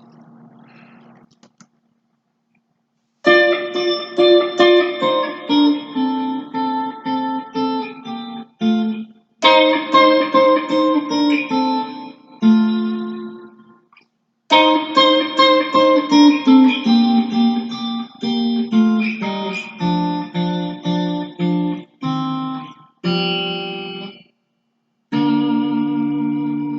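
Guitar played in picked single-note melodic phrases, starting about three seconds in and broken by several short pauses.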